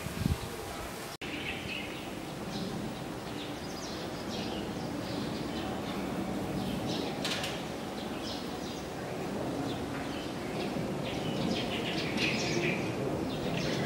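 Small birds chirping over and over against steady low background noise, with a brief dropout about a second in.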